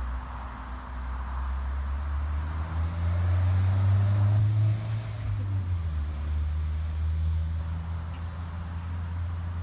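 A motor vehicle's engine running with a low, steady hum. It grows louder about three seconds in and eases off again after about five and a half seconds.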